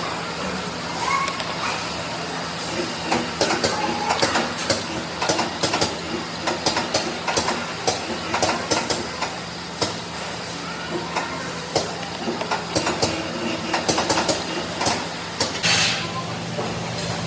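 Tyre factory machinery running: a steady hum and hiss with frequent sharp clicks and clanks.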